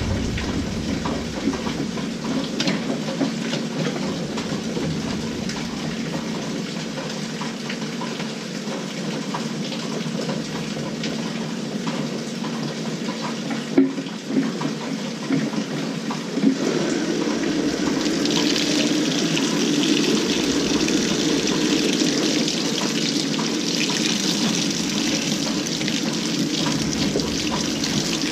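LG 18 kg top-load washing machine filling its drum with water at the start of a delicate cycle: a steady rush of running water that grows louder and hissier about two-thirds of the way through.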